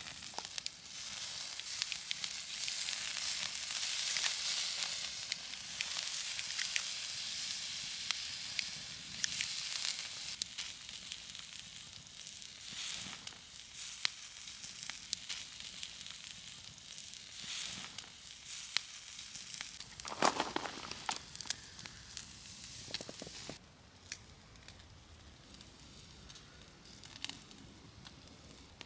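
Steady sizzling with many small crackles and pops, with one louder sound about two-thirds through; it turns quieter for the last few seconds.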